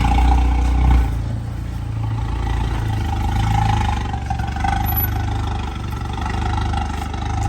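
A vehicle engine running steadily with a low rumble, louder for about the first second.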